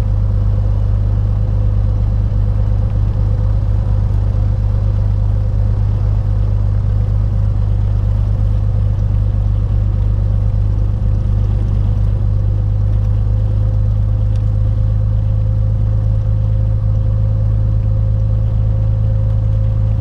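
Beechcraft Bonanza's piston engine and propeller running steadily at low taxi power, heard inside the cabin as a constant drone.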